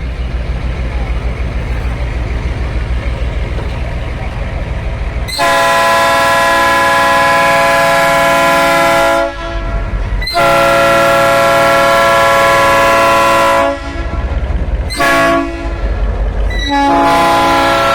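A low rumble of the train, then a locomotive sounds a loud multi-note chime in a long, long, short, long pattern, the standard warning for a level crossing.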